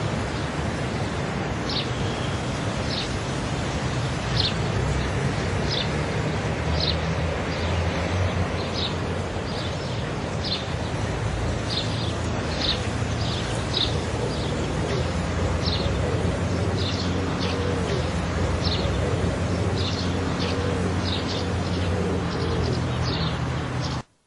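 A bird calling with short, high chirps repeated every second or less, over a steady outdoor rush of noise. It all cuts off abruptly at the very end.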